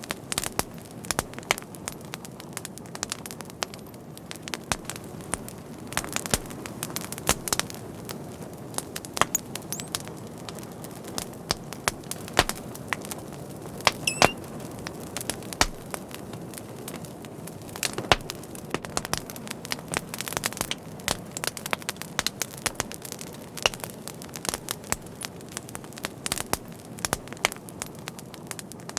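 Wood fire crackling: irregular sharp pops and snaps over a steady low rustle of flames, with a brief high whistle about halfway through.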